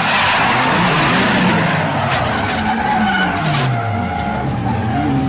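Drifting car's engine revving up and down over the hiss and screech of sliding tyres.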